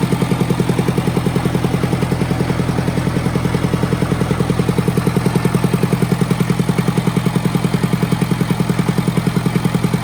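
International diesel tractor engine idling steadily with an even, rapid beat, running on a new injector pump after standing unused for 20 years.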